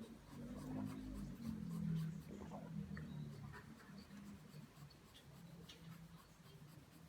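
Pencil drawing lines on paper, a soft scratching that is strongest in the first few seconds and then grows lighter.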